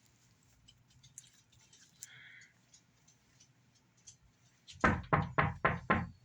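Five sharp knocks in quick succession, about four a second, near the end. Before them there are only a few faint ticks against a low room hum.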